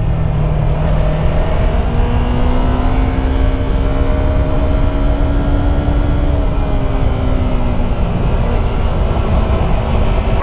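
Yamaha YZF-R3's parallel-twin engine running steadily at road speed, its note rising slightly and easing back, under a heavy rush of wind noise.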